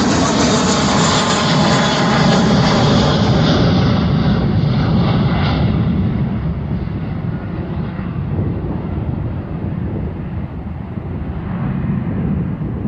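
Jet airliner's engines on takeoff: a loud jet roar at its peak about two seconds in, then fading as the plane moves away, with the high hiss dying off first.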